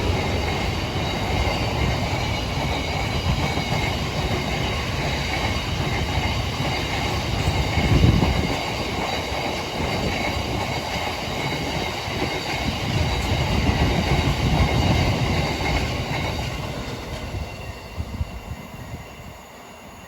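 A passing train running over the rails, with a faint high-pitched wheel squeal and a louder bump about eight seconds in. The sound fades away over the last few seconds as the train moves off.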